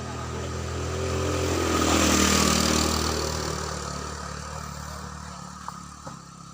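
A motor vehicle passing close by: its engine grows louder to a peak about two seconds in, drops in pitch as it goes past, then fades away.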